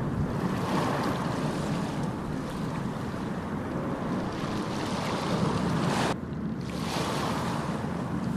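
Ocean surf: waves washing and breaking in a steady rush that swells and ebbs every second or two, with a sudden dip in the hiss about six seconds in.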